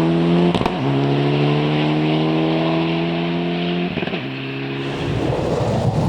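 Rally car accelerating hard on a stage, the engine note rising steadily and dropping sharply at upshifts about half a second in and again about four seconds in. Near the end the note breaks up into a rougher sound.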